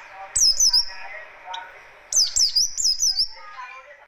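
White-eye (pleci) singing its harsh, rapid song: two bursts of quick, high, slurred chirps, a short one about half a second in and a longer one about two seconds in, over softer, lower twittering.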